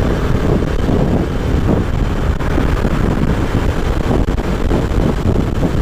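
Wind buffeting the microphone of a rider on a moving motorcycle, a loud steady low rumble.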